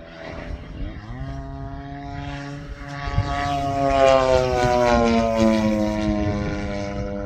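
Radio-controlled model P-47 Thunderbolt's motor and propeller droning in flight. The pitch rises about a second in, the sound grows loudest as the plane passes, then the pitch slowly falls as it moves off.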